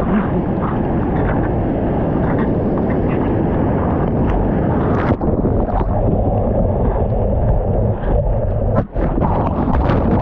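Loud rushing surf water and wind buffeting the microphone, with brief dropouts about five and nine seconds in and sharp crackles near the end.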